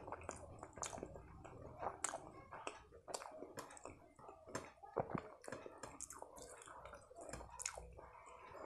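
Close-miked chewing with wet mouth smacks and irregular clicks, mixed with the squish of fingers working through a thick paneer curry gravy.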